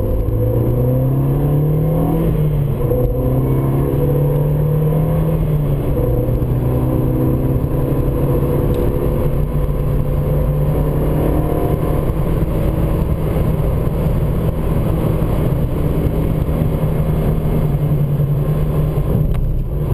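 Renault Mégane RS's turbocharged 2.0-litre four-cylinder under power, heard from inside the cabin. Its pitch climbs, dips briefly about two seconds in, climbs again, then holds steady at speed over a constant rumble of road and tyre noise.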